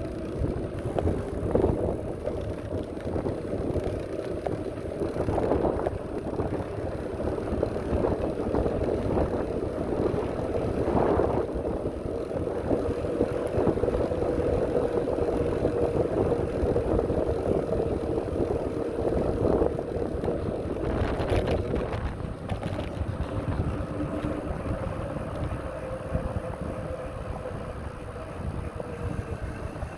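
Bicycle in motion: tyres rolling on pavement with wind rumbling on the microphone and a steady hum whose pitch drifts slightly, broken by a few brief knocks.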